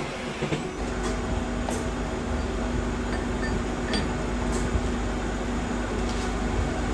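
Metalworking machinery running steadily, with a low hum that comes in under a second in, a constant tone above it, and a few sharp metallic clicks.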